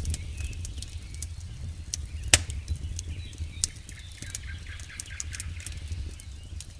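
Campfire crackling: scattered sharp pops and snaps of burning wood, one loud snap about two seconds in, over a low steady rumble.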